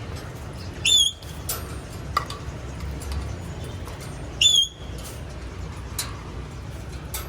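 Parrot giving two loud, shrill squawks about three and a half seconds apart, with a few softer chirps in between.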